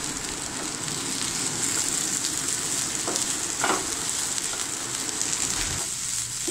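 Ivy gourd and potato strips sizzling steadily as they fry in oil in a non-stick pan, stirred with a wooden spatula.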